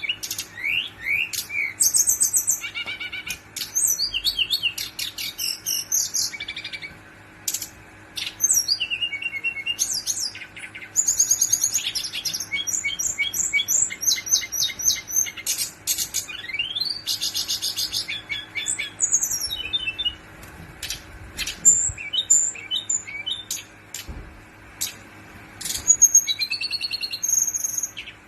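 Brown-chested jungle flycatcher singing long, fast rolling phrases of quick, high, repeated notes, broken by a few short pauses.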